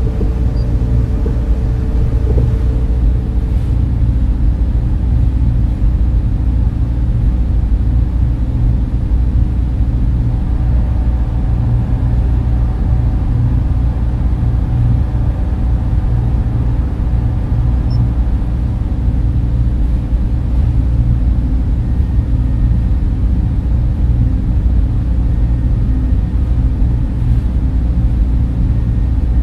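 Data center machine noise: servers and their cooling fans running as a steady, deep, even rumble, with a few faint steady tones above it.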